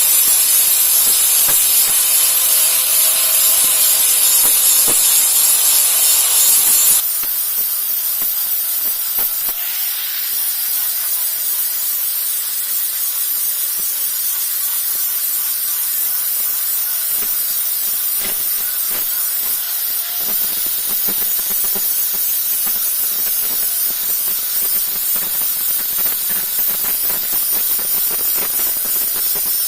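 Electric grinder working a machete blade: a steady motor whine under a loud, hissing grind. About seven seconds in the grinding hiss drops and the whine rises slightly in pitch, then runs on steadily.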